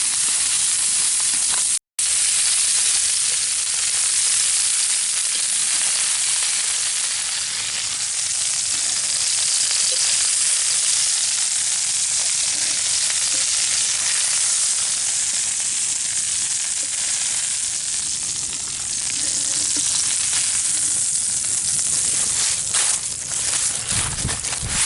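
Chicken thighs sizzling on a Wagner cast iron griddle, a steady frying hiss. It drops out for an instant about two seconds in, and a few knocks come near the end.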